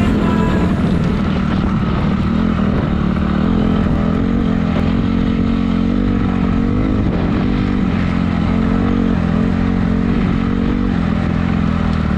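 Honda CRF four-stroke motocross bike engine running steadily, its pitch wavering slightly up and down.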